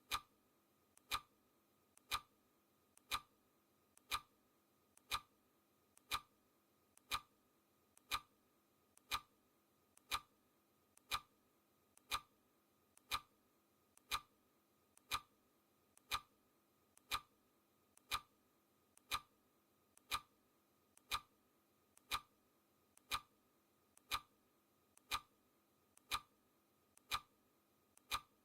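Clock ticking sound effect: a steady, crisp tick once a second, each a sharp click with a fainter click just before it.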